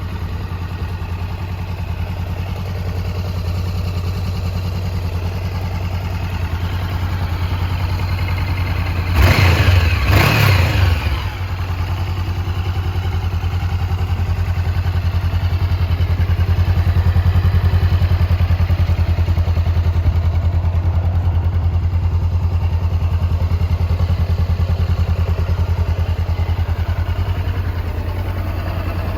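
Honda CB500F's parallel-twin engine idling steadily, with two quick throttle blips about nine seconds in before it settles back to idle.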